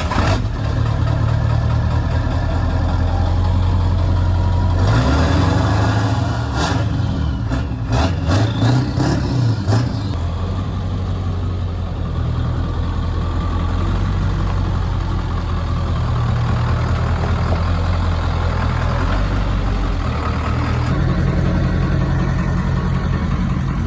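Ford 7.3L Powerstroke V8 turbo diesel running through a freshly installed 5-inch cat-back exhaust, idling with a deep, steady note that sounds pretty nasty. The note rises and falls briefly about five to ten seconds in.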